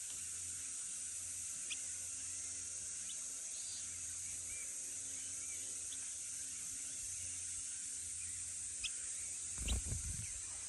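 Steady high-pitched insect chorus in a grassy field, with a few short, high chirps scattered through it and a soft low knock or rustle near the end.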